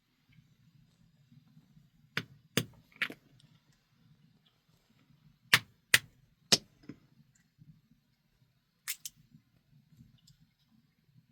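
Sharp, short knocks or taps of hard objects: three quick ones about two seconds in, three more about six seconds in and two near the end, over a faint low hum.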